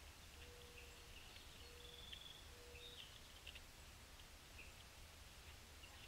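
Faint wild birds calling: scattered short chips and calls, with three short, steady low notes evenly spaced in the first half, over a low steady rumble.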